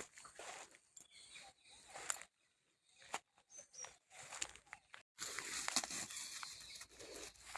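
Intermittent rustling and crunching of grass being cut and handled, with sharp clicks and a few abrupt breaks. A short bird chirp comes about three and a half seconds in.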